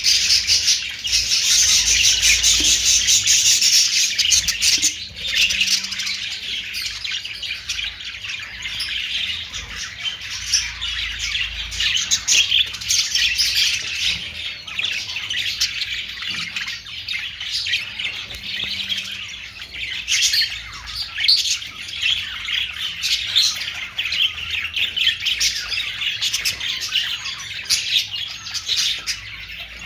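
Budgerigars (Australian parrots) chattering and chirping nonstop in many overlapping high calls, loudest in the first four seconds.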